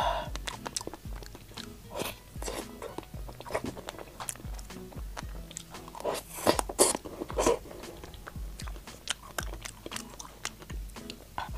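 Close-miked eating: chewing and wet mouth sounds as spoonfuls of strawberry cream cake are eaten, loudest from about six to seven and a half seconds in, over soft background music.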